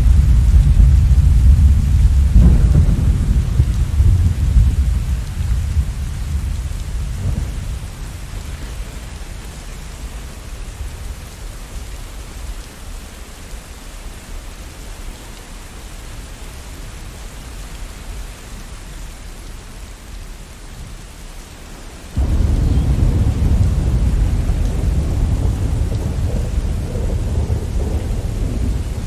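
Thunderstorm: steady rain with a low rolling rumble of thunder that dies away over the first several seconds. A fresh heavy rumble starts suddenly about two-thirds of the way through.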